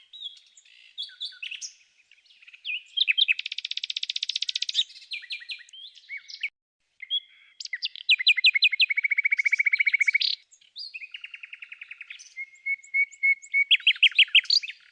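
Songbird singing: varied chirps and short whistles broken by several fast trills, each lasting one to two seconds, in separate phrases with brief pauses between them.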